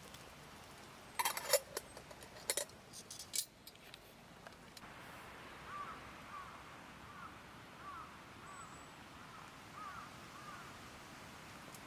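A few light metallic clinks and knocks in the first few seconds, then a faint steady hiss with small, repeated chirping calls.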